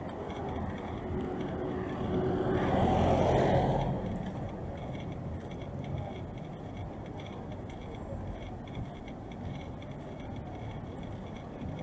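Street traffic noise, with a vehicle passing close by that swells and fades over a couple of seconds about a quarter of the way in.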